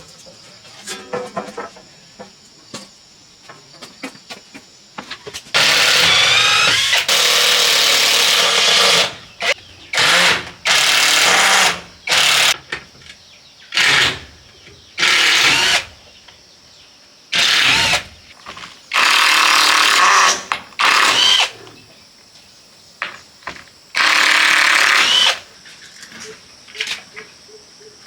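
A power tool run in about ten short bursts, from half a second to three seconds each, with a squealing pitch that bends within each burst.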